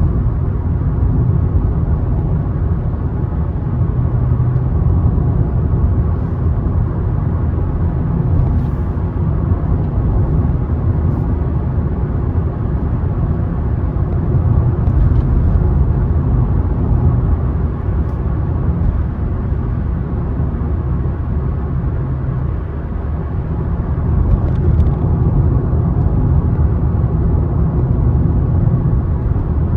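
Car driving along a road: steady low rumble of tyres and engine.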